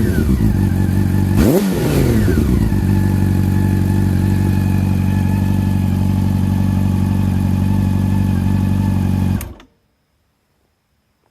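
Honda CB400 Super Four's inline-four engine through a Striker slip-on exhaust, revved once about a second and a half in, then falling back to a steady idle. It is switched off near the end and the sound cuts out suddenly.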